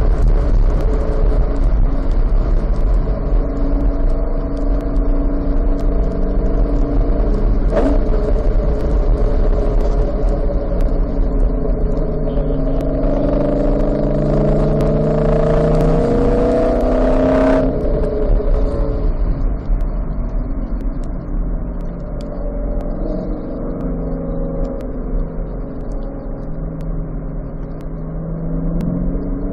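Car engine heard from inside the car on a wet track, off the throttle as the car slows from high speed into a slow bend, running at low revs under a steady rush of tyre and spray noise. About halfway through, the engine note rises and falls, and the hiss above it cuts off suddenly a couple of seconds later.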